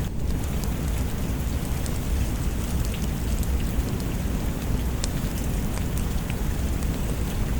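Steady heavy rain falling, with a deep rumble underneath and scattered small ticks of drops.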